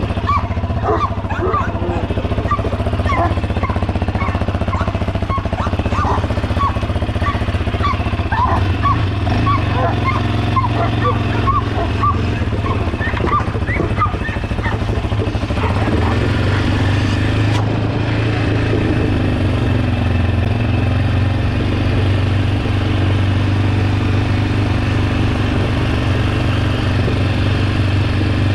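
A steady, loud, low engine-like drone, with a run of short high squeaks or chirps over the first half.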